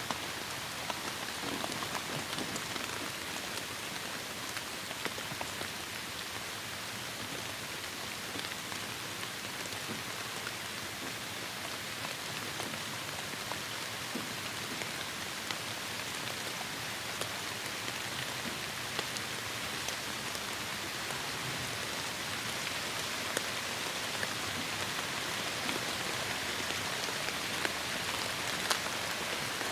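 Heavy rain falling steadily, an even hiss flecked with the sharp ticks of individual drops striking.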